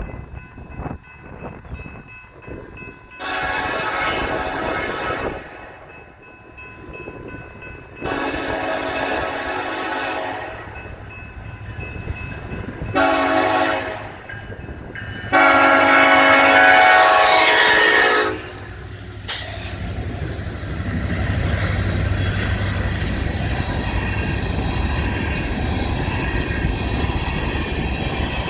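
Freight locomotive air horn, a Nathan K5LLA chime, sounding the grade-crossing signal: two long blasts, a short one and a final long one. The approaching coal train's rumble and wheel noise build over the last several seconds.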